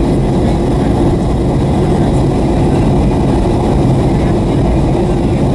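Steady low drone of a Boeing 757-300's cabin in flight on approach: engine and airflow noise heard from inside the cabin, even throughout.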